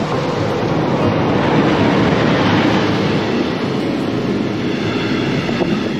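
Red DB Regio double-deck passenger train passing close by on the tracks, a loud, steady rush of wheel and rail noise.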